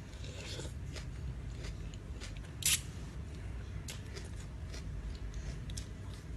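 Close-up eating sounds: chewing on crispy squid and rice noodle salad, with scattered small crunchy clicks and one louder crunch a little after two and a half seconds in.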